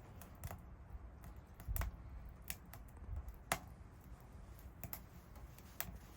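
Wood fire crackling faintly, with sharp irregular pops and snaps over a low rumble.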